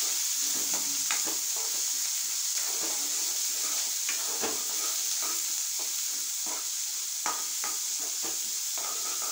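Sliced onions and spices frying in coconut oil in a nonstick kadai, a steady sizzle, while a wooden spatula stirs and scrapes them around the pan in short strokes.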